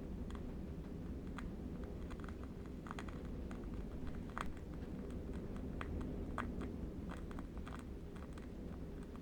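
Irregular soft crackling of a burning candle wick, a few small pops each second, over a steady low wind rumble.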